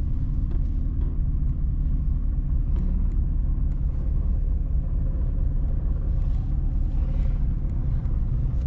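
1989 Chevy G20 van driving, a steady low engine and road rumble.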